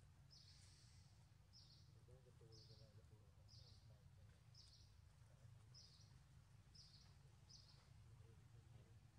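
A bird's short, high chirp repeated about once a second, eight times, faint over a low steady rumble of background noise.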